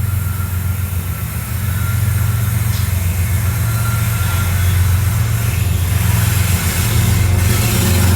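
Diesel-electric freight locomotive engine running with a steady low drone, growing gradually louder.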